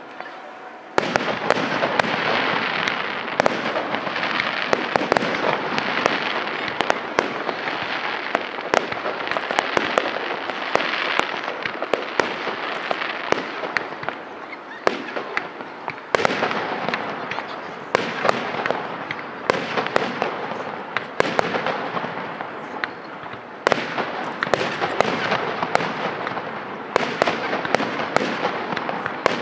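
Fireworks display: aerial shells bursting one after another, many sharp bangs over a dense continuous din, starting about a second in.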